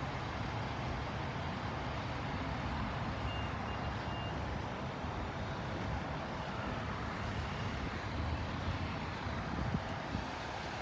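Steady road and vehicle noise at a roadside, with a faint high beeping repeated briefly about three to four seconds in.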